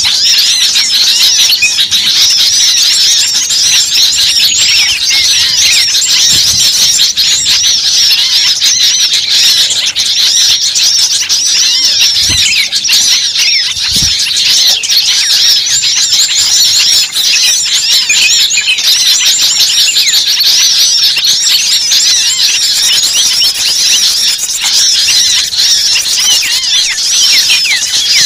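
Many small birds chirping at once in a dense, continuous chatter of quick, high chirps, with two dull low thumps about halfway through.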